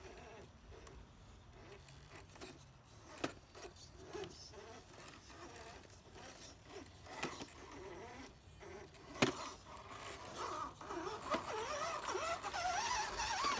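Electric motor and drivetrain of a scale RC crawler truck whining, the pitch wavering with the throttle and rising louder near the end, with a few sharp knocks from the truck against rock.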